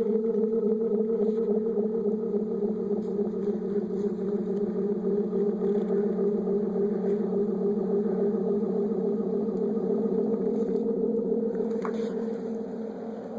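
Loud steady drone picked up through a wideband antenna, two low pitched bands with a fast wavering flutter, easing off slightly near the end. The uploader holds that it is not wind, which would give a single steady tone.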